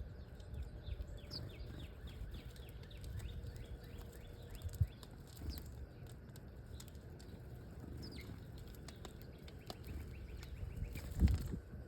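Small songbirds calling, a run of many short, quick chirps, over a low steady rumble. A louder thump comes about eleven seconds in.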